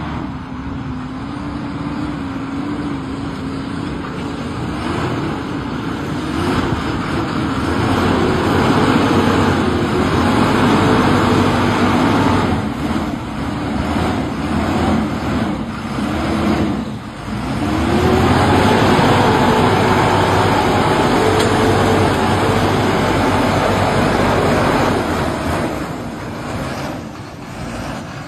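Tractor engine running and revving, its pitch climbing and falling, with a sharp drop about two-thirds of the way through before it picks up again and holds, easing off near the end.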